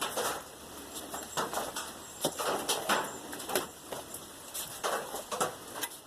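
Irregular clicks, scrapes and light knocks of metal parts being handled, a welded nut, bolt and tubing.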